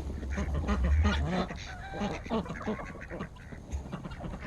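Domestic geese and ducks calling: a scatter of short honks and quacks from several birds.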